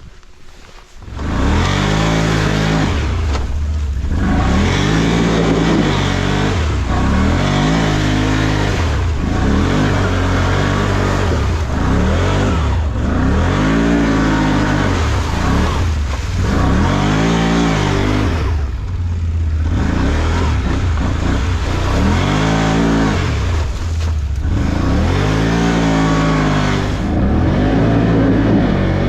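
Off-road vehicle's engine revving hard over and over, its pitch climbing and dropping about every two seconds as it is driven through a mud hole.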